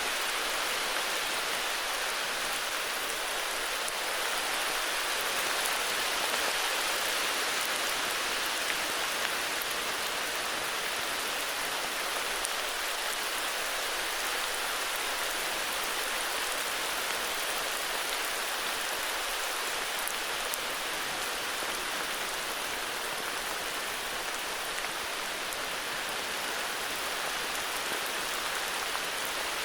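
Heavy rain falling steadily, a dense even hiss of many drops with no thunder.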